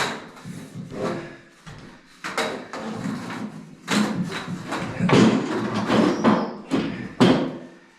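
Irregular knocks, thumps and scraping as a shower base is shifted and set down on the floor while it is test-fitted into a corner.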